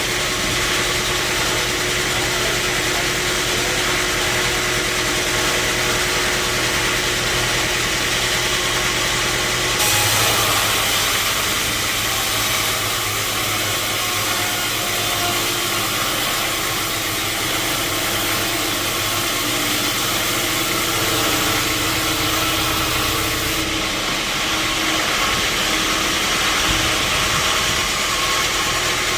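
Sawmill machinery running steadily, a constant engine-like drone with hiss over it; the sound shifts abruptly about ten seconds in and again near the end.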